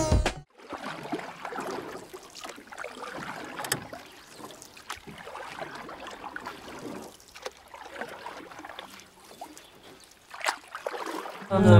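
Water rushing and splashing along the hull of a sailing yacht driving hard under sail, heeled over with its bow wave breaking alongside. A few short, sharp knocks stand out from the steady rush.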